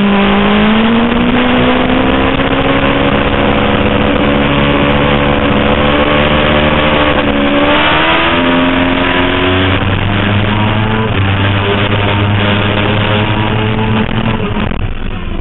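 Suzuki GSX-R 750 inline-four engine under load at speed, its pitch climbing slowly as it accelerates, rising more steeply about eight seconds in, then dropping back about ten seconds in and running steadily.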